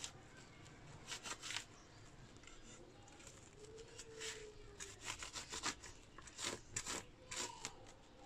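Irregular short scratchy rubbing and scraping strokes, the sound of soot and burnt residue being cleaned out of a burnt-out inverter.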